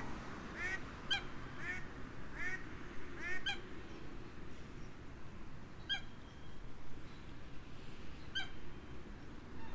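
Short honking bird calls, repeated about twice a second for the first few seconds, then single sharper calls every two to three seconds.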